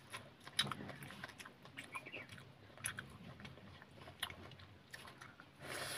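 Close-up mouth sounds of a person biting and chewing bone-in chicken with rice: irregular small clicks and smacks, one sharper click about half a second in, and a short louder rush of noise near the end.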